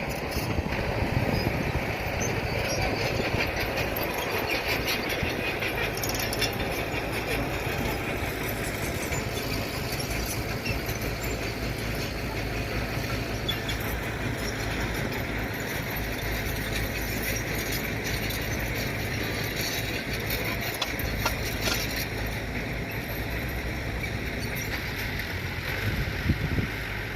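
A truck's engine running steadily.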